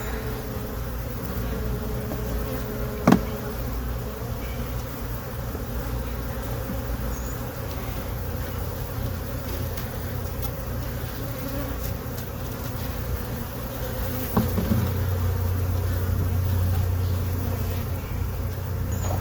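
Honey bees buzzing steadily around an open hive, with a sharp knock about three seconds in and a smaller one later.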